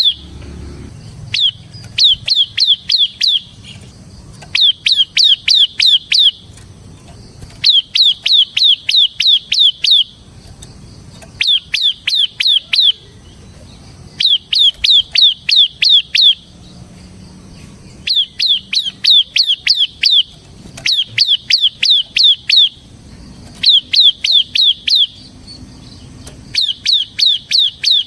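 Bar-winged prinia (ciblek semi) singing a loud, rapid 'ngebren' song: phrases of about eight quick, sharp descending notes, each phrase repeated after a short pause, roughly every two to three seconds.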